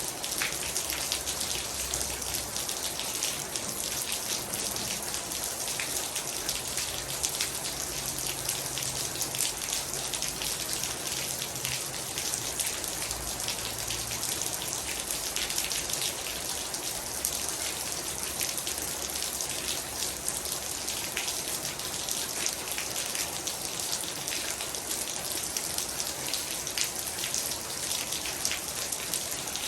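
Heavy rain falling steadily, with a dense patter of individual drops hitting a surface. A faint low hum lies underneath during the first half.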